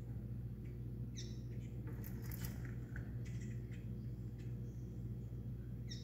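Bird chirping: two short, sharp calls that fall in pitch, about a second in and again near the end, with a scatter of clicks and taps between them. A steady low hum runs underneath.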